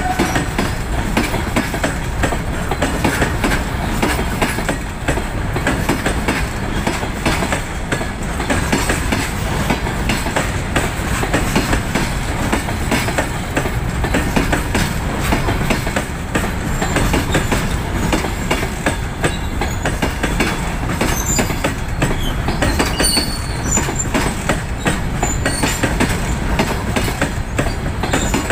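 Long goods train of covered box wagons rolling past, a steady rumble with the wheels clattering over the rail joints.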